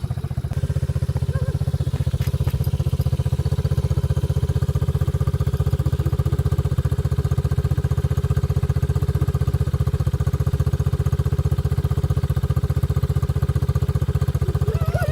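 A small engine running steadily at an even speed, with a fast, even pulse.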